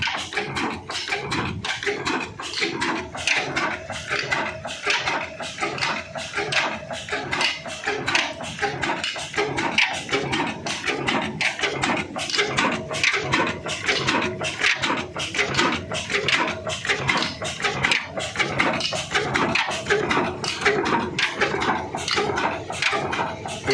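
Old black Ruston Hornsby diesel engine running steadily, its exhaust beating evenly about five times a second.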